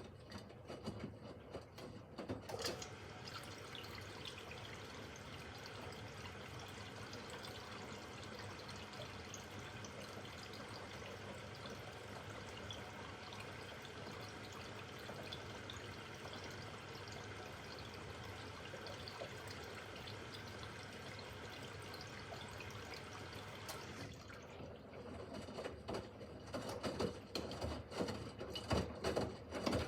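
Miele W5801 WPS washing machine filling with water on its 30 °C easy-care programme: a steady rush of incoming water that stops about 24 seconds in, followed by a run of irregular knocks and clicks.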